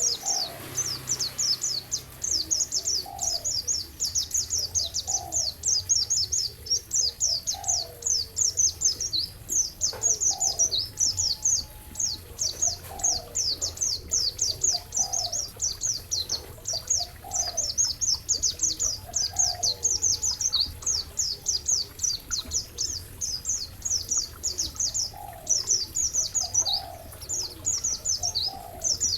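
Recorded songbird masteran track: one or more birds sing a continuous run of very fast, high-pitched chirps and trills, with a lower call repeating about every second and a half.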